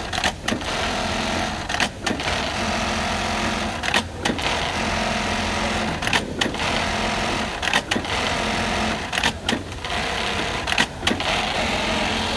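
Brother industrial bartack sewing machine running in repeated short cycles of about two seconds each, every cycle ending in a brief stop with sharp clicks before the next starts, some six times over.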